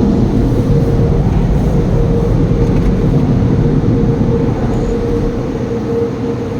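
Automatic car wash air dryer blowers running: a loud, steady rush of blown air with a constant hum, easing off slightly near the end.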